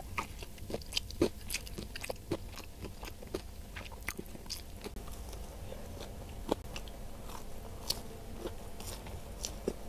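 Close-miked chewing of a mouthful of rice and fried chicken nugget: many small, irregular mouth clicks and smacks.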